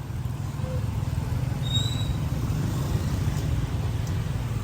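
Steady low rumble of street traffic engines, with a brief high chirp about two seconds in.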